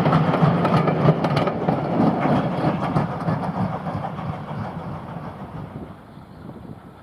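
Steam-hauled train running past and away, with a clatter of wheels over the rails in the first second or so, then its sound dying away steadily.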